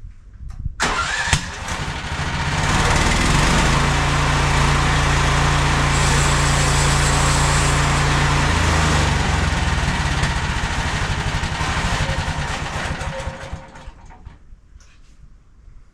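Gasoline engine of a MechMaxx SM32 portable bandsaw sawmill running. It comes up to speed about a second in, runs steadily at high throttle, and winds down near the end.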